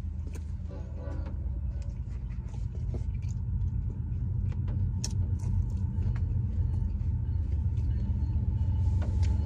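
Steady low rumble, growing slightly louder, with sparse small mouth clicks and smacks of a man chewing a crunchy fried taco and a short closed-mouth "mmm" about a second in.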